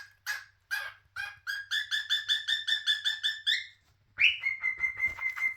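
Cockatiel calling repeatedly in shrill chirps, loud enough for its owner to apologise for the noise. They come about three a second, then quicken into a fast run. After a short pause, a rising call leads into a quick string of chirps on one note.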